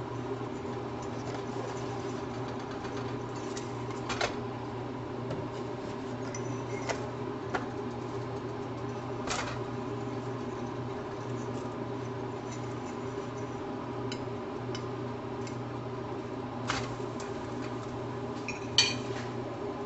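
Steady mechanical hum with a few sharp clicks and taps scattered through it, the loudest near the end.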